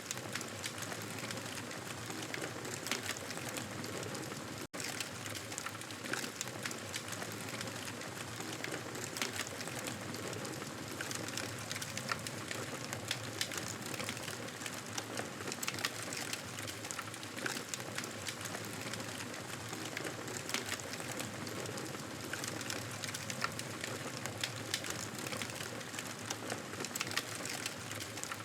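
Campfire crackling steadily: many small pops and snaps over a continuous hiss. The sound drops out for an instant about five seconds in.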